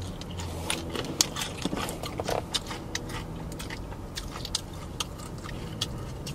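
Biting into and chewing crispy fried chicken, with many irregular crunches and wet mouth clicks.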